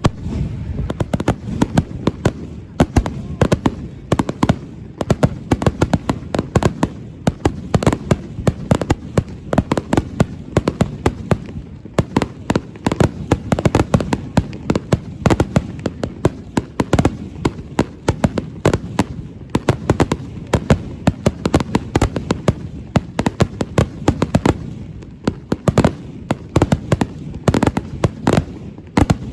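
Fireworks display going off in a dense, continuous barrage of many sharp bangs and crackles a second, beginning suddenly with a loud bang.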